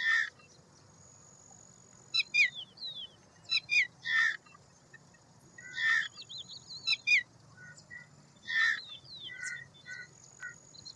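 Several birds calling: loud harsh calls come every two seconds or so, with quick runs of falling chirps and a thin, steady high whistle between them.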